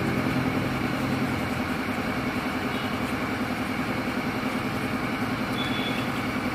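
A motor or small engine running steadily with a fast, even pulse.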